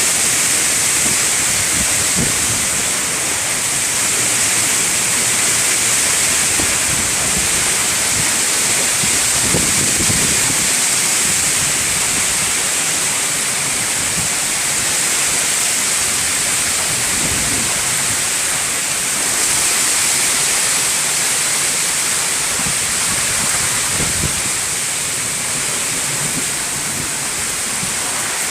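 Heavy rain pouring down steadily in a storm, a loud, even hiss with no let-up.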